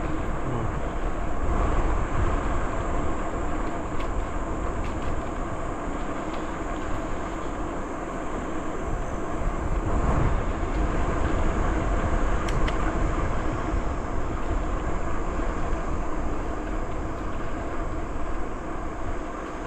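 Steady rush of wind on the microphone and rolling bicycle tyre noise while riding along a trail, heaviest in the low rumble.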